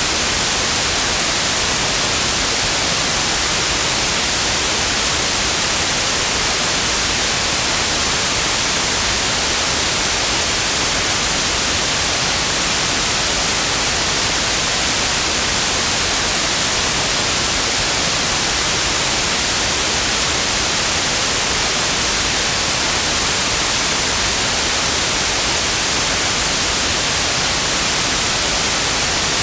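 Steady white noise: an even, unchanging hiss, brightest in the high frequencies, with no breaks or events.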